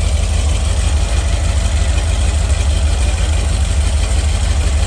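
Carbureted Rover 4.0 V8 running on an engine stand, idling steadily with an even low-pitched pulse, just after its first start.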